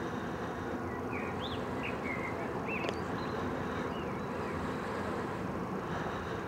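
Songbirds giving a few short chirps in the first half, over a steady low background rumble.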